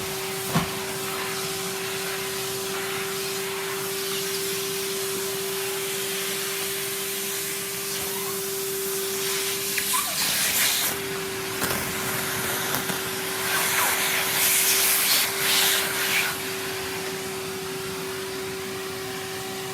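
Numatic Henry canister vacuum cleaner running with a steady motor hum, with louder rushing surges about halfway through and again a few seconds later as it sucks up wood shavings and wood dust.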